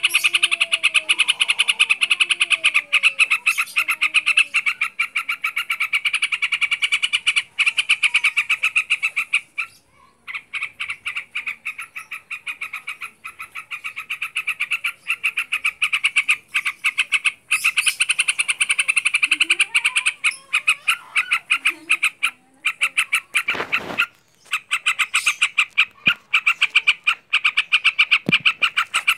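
Yellow-vented bulbul (trucuk) calling in a fast, continuous rattling chatter, with short breaks about ten seconds in and again near twenty-three seconds, and a few lower sliding notes. A single dull thump about twenty-four seconds in.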